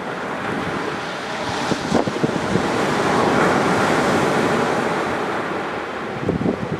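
Surf on a sandy beach: a wave's wash swells about a second and a half in, peaks midway and ebbs away. Sharp pops of a driftwood fire crackling stand out now and then.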